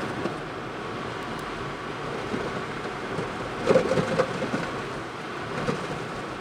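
Steady rumble of a car driving, with a cluster of knocks and thumps about four seconds in and a lighter one near the end.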